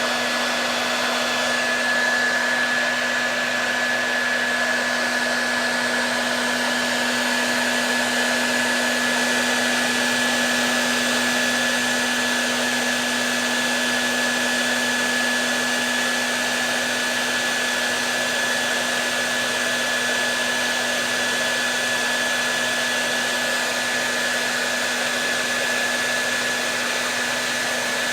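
Hair dryer running steadily: a constant airy rush with a low hum and a thin high whine from the motor and fan.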